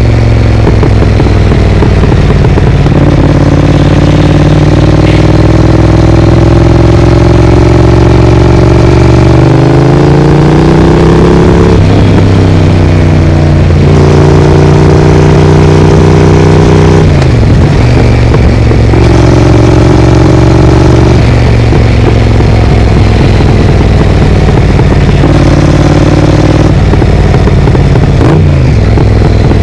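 Triumph Speed Twin's parallel-twin engine running through an aftermarket Vance & Hines exhaust while riding. It holds a steady note for stretches, rises in pitch as it accelerates about ten seconds in, and drops sharply twice as the throttle closes, near the middle and near the end.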